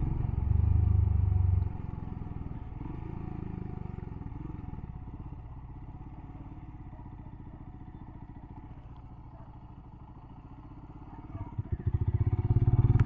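Motorcycle engine running with a rapid, even low pulse. It is louder for the first second and a half, drops to a quieter low running for most of the stretch, and picks up again about a second before the end.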